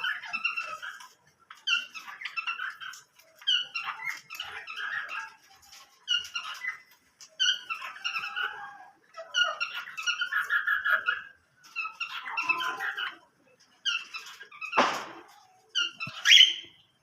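Small cage birds chirping and twittering in repeated bursts of rapid high notes, one burst every second or two, with a brief sharp louder sound near the end.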